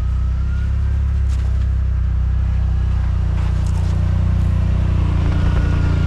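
Yamaha RMAX side-by-side's engine running at a steady speed while riding.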